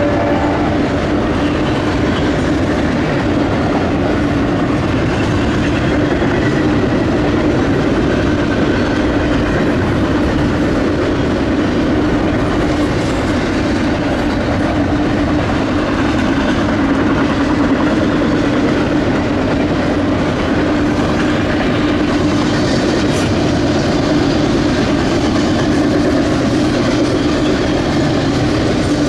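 Double-stack container train's well cars rolling past, a steady loud rumble of steel wheels on rail with a constant low drone running under it.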